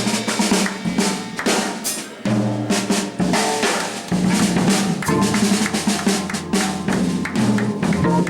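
Live jazz with the drum kit to the fore: snare, bass drum and rimshots played busily, over held organ bass notes that move every second or so.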